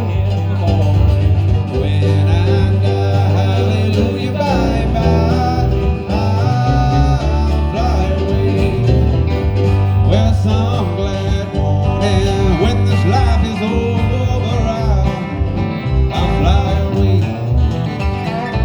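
Country-bluegrass style music: guitar and plucked strings over a steady bass line, played without sung words.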